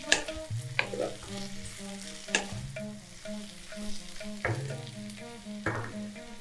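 Sliced bitter gourd and onions sizzling in a wok while a wooden spatula stirs them, with about five sharp scrapes of the spatula against the pan.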